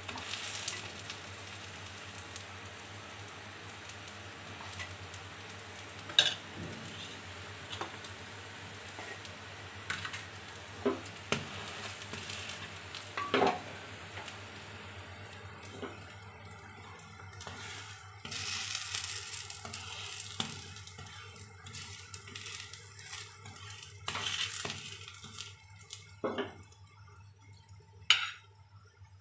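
Besan chilla frying in oil on a tawa (flat griddle), sizzling steadily, the sizzle growing thinner and more broken in the second half. Several sharp clinks of a utensil against the pan or dishes come at intervals.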